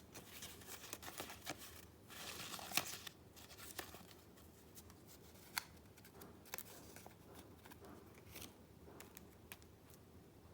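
Soft paper handling: rustling and crinkling of junk-journal papers, with scattered sharp ticks and taps, busiest in the first few seconds and sparser after.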